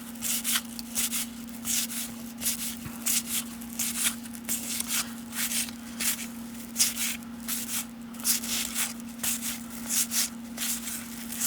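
Baseball trading cards being flipped through by hand: an irregular run of short card slides and flicks, two or three a second, over a steady low hum.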